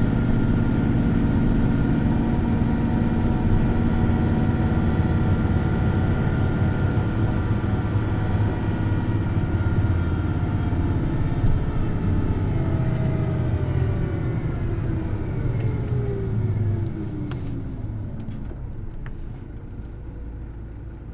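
Hino Blue Ribbon City Hybrid bus's diesel-electric drivetrain under way at high revs, then its whine falling steadily in pitch and the running sound dropping away as the bus slows.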